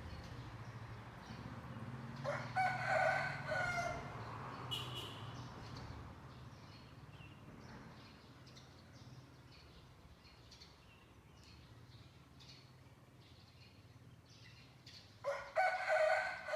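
A rooster crows twice, once about two seconds in and again near the end. Small birds chirp faintly in between, over a low engine hum from a vehicle that fades out in the first few seconds.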